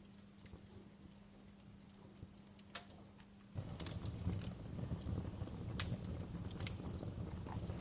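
Wood fire crackling, with scattered sharp pops and snaps. About three and a half seconds in, a low rushing roar of flames comes in abruptly and the crackling grows denser and louder.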